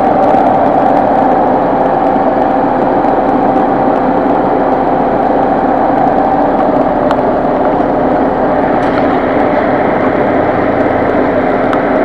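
Car engine idling steadily, with a constant whirring hum over it.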